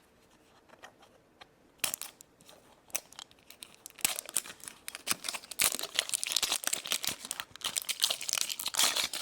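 A surprise-toy package being torn open and its wrapper crinkled in the hands: a few scattered crackles at first, turning into dense, continuous rustling and crackling from about four seconds in.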